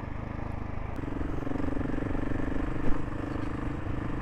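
Gas Gas ES 700's single-cylinder engine running steadily under way on a dirt trail. Its note eases briefly just before a second in and then picks back up. There is one sharp knock about three seconds in.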